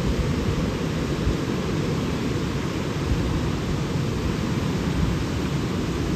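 Steady rushing noise of falling water, mostly a deep rumble with a fainter hiss above it, and gusts of wind buffeting the microphone.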